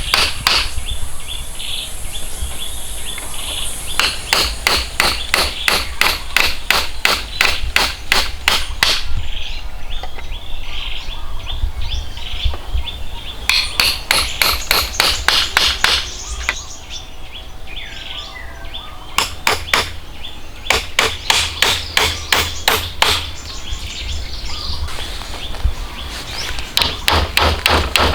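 Hammering in quick runs of sharp strikes, about three a second, each run lasting a few seconds. Birds chirp in the pauses between runs.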